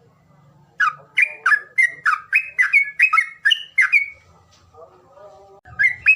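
Bird calling in a fast run of sharp whistled notes, each sliding downward, about three a second. Near the end comes a brief lower wavering call, then the sharp notes start again.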